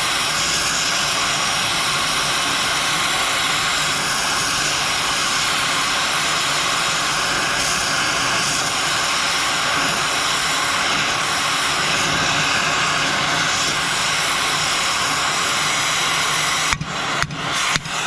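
Gas heating torch running with a steady, loud rushing roar, heating a track pin joint red-hot to free the pin. Near the end, sharp knocks come about twice a second.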